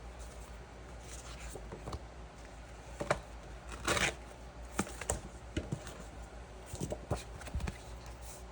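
Handling noises: a scattered run of small knocks and clicks, with a brief scraping rustle about four seconds in, over a steady low hum.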